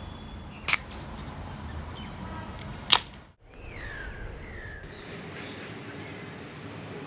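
Two sharp clicks about two seconds apart over a steady background hum, then a couple of short falling chirps from a bird.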